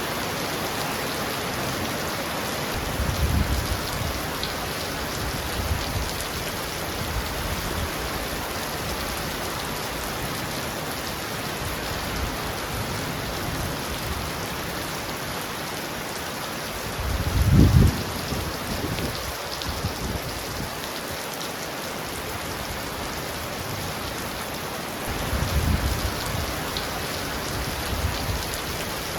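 Heavy rain pounding on a roof in a steady dense hiss, with low rumbles of thunder now and then, the loudest about two-thirds of the way through.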